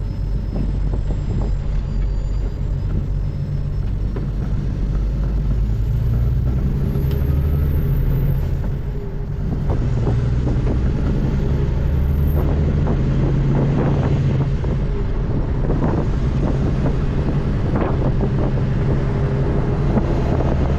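Diesel semi-truck engine running under load while driving, a steady deep drone with several low tones. The sound drops briefly about nine seconds in, then picks back up.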